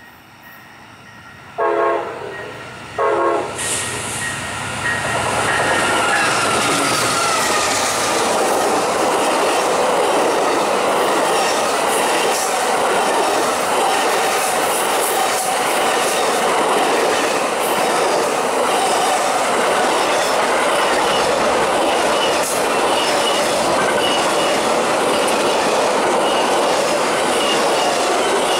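Amtrak GE P42DC diesel locomotive's horn sounding two short blasts for a grade crossing. The train then passes close by with a steady rumble and the clickety-clack of its cars' wheels over the rail joints.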